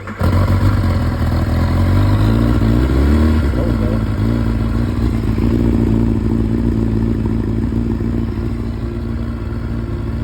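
Kawasaki ZX-10R's inline-four engine, running on E85, firing up on a cold start. It catches suddenly, the revs rise and fall for a moment about two seconds in, and it then settles into a steady idle.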